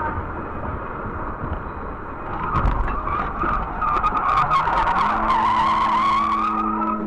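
Car tyres squealing in a skid, a wavering screech from about four seconds in, with sharp cracks and knocks around it. A steady tone joins about five seconds in.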